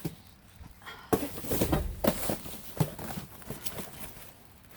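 Rummaging through trash in a dumpster: irregular knocks, thuds and rustles of boxes, bags and items being moved about, one sharp knock about a second in.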